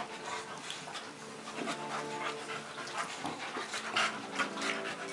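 A Boxer-mix dog panting in quick, uneven breaths.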